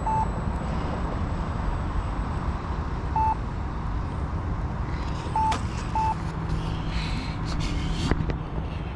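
Steady wind rush on the microphone with the electric motor of a Turbo Timber Evolution RC plane in flight; a low steady hum comes in about two thirds of the way through. Short single electronic beeps sound a handful of times.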